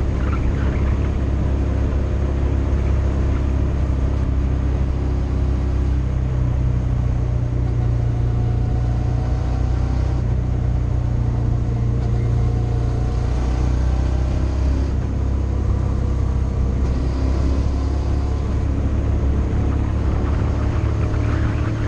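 Motorcycle engine running under way on a road ride, a steady engine note whose pitch steps up about six seconds in and settles lower again around fourteen seconds, as the throttle or gear changes.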